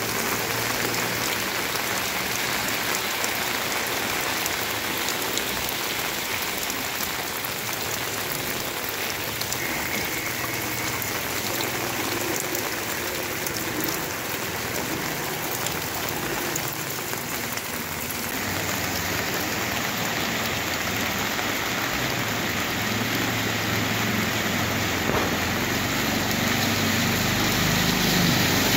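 Steady rain falling onto a flooded street and its standing water. Near the end an auto-rickshaw engine grows louder as it pushes through the water.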